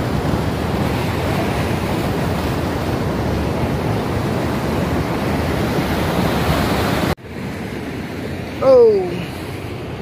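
Steady rush of waterfall water, dropping suddenly about seven seconds in to a quieter rush. Near the end a short falling cry from a voice rises above it, the loudest sound.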